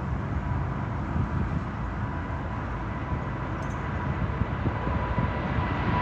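Boeing 777's jet engines at takeoff power: a steady low rumble with a thin whine, growing slowly louder near the end.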